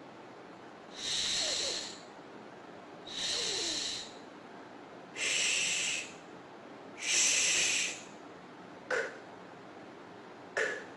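A person pronouncing voiceless consonant sounds in isolation, with pauses between them. There are four drawn-out hisses of about a second each: the first two are higher and sharper, like 's', and the next two are lower, like 'sh'. Two short puffs of breath follow near the end.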